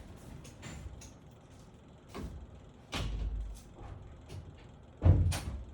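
A door being shut: a knock with a short low rumble about three seconds in, then a heavy thud near the end, the loudest sound, amid scattered light knocks and clicks.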